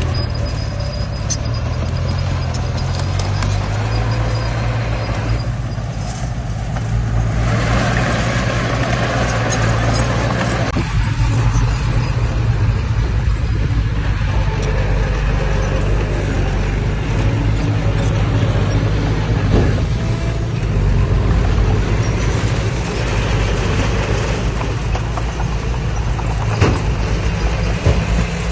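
Heavy diesel earthmoving machinery running steadily: a low engine drone with a layer of mechanical clatter and rushing noise that swells about seven seconds in, and a few sharp knocks.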